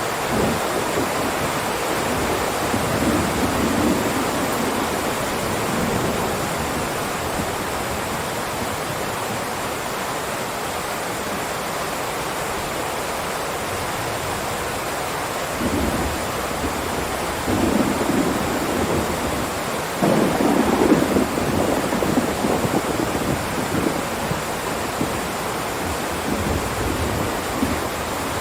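Heavy rain downpour falling steadily, with low rumbles of thunder swelling up a few times, the strongest about twenty seconds in.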